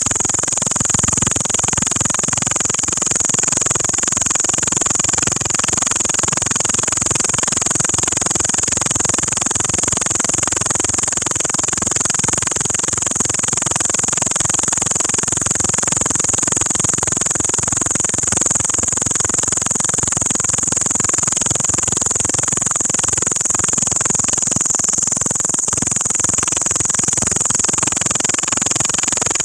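An insect the uploader calls a locust singing: a loud, continuous high-pitched buzz held at one pitch without a break.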